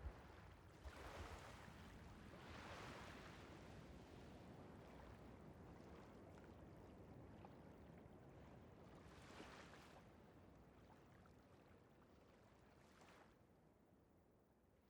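Faint rushing water with a few slow swells, like surf, fading out gradually toward the end.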